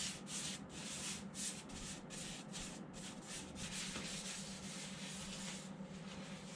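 Rag rubbing wood stain onto an ash bench top in quick back-and-forth strokes, about three a second, then a steadier wiping.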